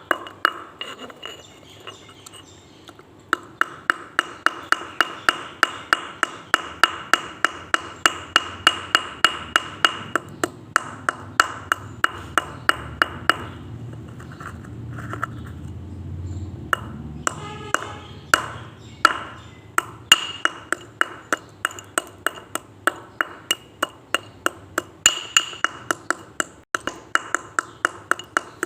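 Hard slate pencil being bitten and chewed: sharp, brittle crunches at about three a second, which pause for a few seconds midway and then resume.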